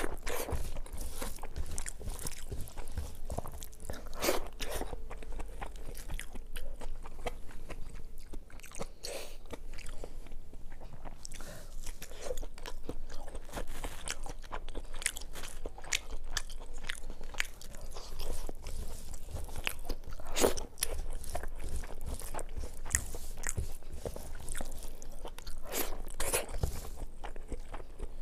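Close-miked eating by hand: chewing and crunching mouthfuls of rice and crisp fried fish, with a dense, irregular run of wet mouth clicks and smacks throughout.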